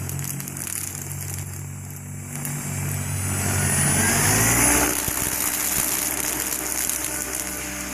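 Goblin 700 electric R/C helicopter flying, its rotor beating in steady low tones with the motor's whine, the pitch sliding up and down as it manoeuvres. A rushing blade-and-air noise swells near the middle, then eases.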